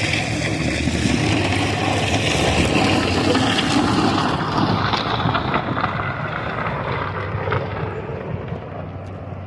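A vehicle running, with wind noise on the microphone. The sound is steady at first, then grows quieter and duller through the second half.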